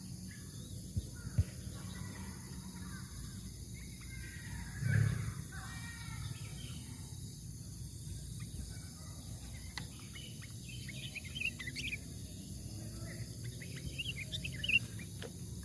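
Sooty-headed bulbuls giving short chirps and trills now and then, in two loose clusters, over a steady high insect hum and low outdoor rumble.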